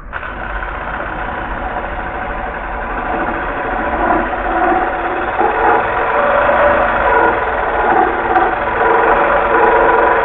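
Air compressor running steadily while filling its air tank, growing gradually louder.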